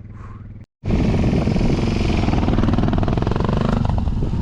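Dual-sport motorcycle engine running hard, loud and close, climbing a steep, slick, muddy slope. A fainter engine sound breaks off less than a second in, then the loud engine comes in after a short gap.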